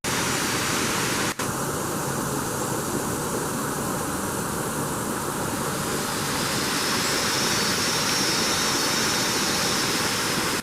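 Steady rushing noise with one brief dropout about a second and a half in, and a thin high buzz joining it about six seconds in.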